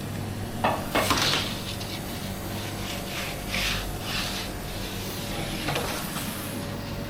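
Kitchen work noise: a few sharp knocks about a second in, then several scraping, rubbing strokes on a wooden surface, over a steady low hum.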